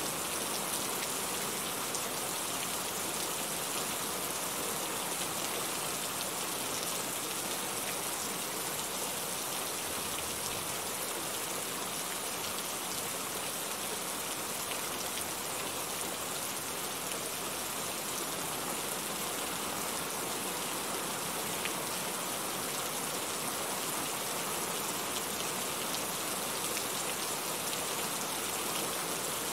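Steady rain falling: an even hiss with a fine patter of scattered drops.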